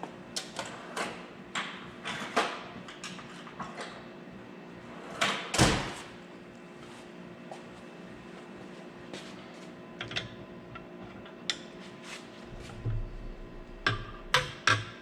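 Scattered clicks and knocks of metal mounting hardware being handled and slid while fitting a miter saw onto its stand, with one louder sliding clunk about five and a half seconds in.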